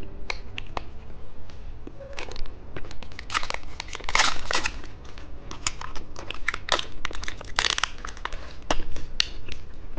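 Plastic candy wrapper crinkling and tearing open, in irregular crackles with two denser bursts about three and seven and a half seconds in.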